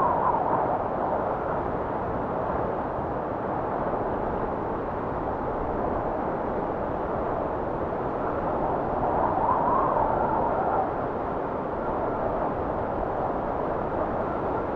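Howling blizzard wind blowing steadily as a low rushing noise. Near the start and again about ten seconds in, it swells into a louder, higher gust.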